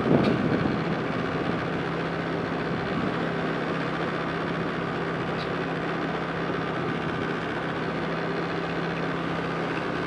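Motorbike engine running at a steady speed while riding, with one constant low hum and an even rush of noise.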